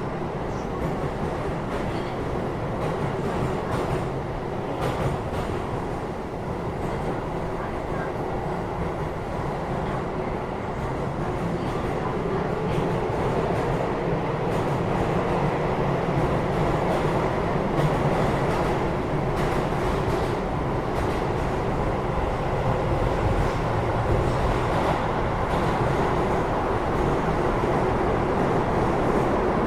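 Keio 8000 series electric train running, heard inside a motor car above its Hitachi GTO-VVVF main controller. A continuous rumble of wheels and motors with a low steady tone, gradually growing louder, and a few faint knocks from the rails.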